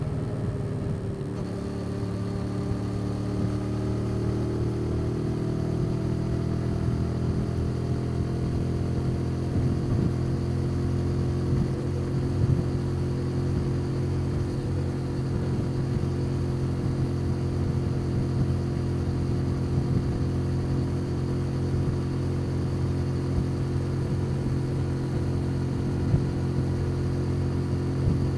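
Motorbike engine heard from onboard while riding. Its pitch rises over the first few seconds as it speeds up, then it holds a steady cruising note.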